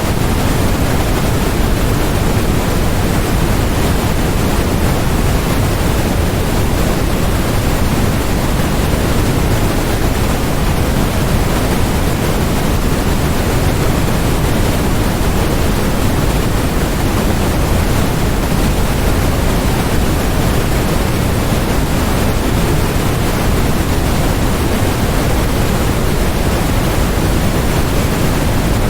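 Steady, unbroken electronically generated noise, sold as white noise but heavier in the low end than in the hiss, like pink noise. It does not change at all.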